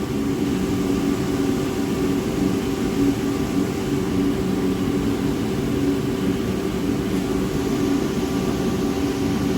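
Commercial boiler burner firing at high fire: a steady drone of fan and flame with a constant hum of several steady tones underneath.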